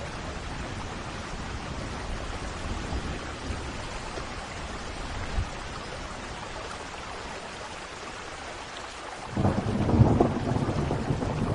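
Steady rain with low rumbling thunder, then a loud thunderclap breaking out about three-quarters of the way through and rumbling on.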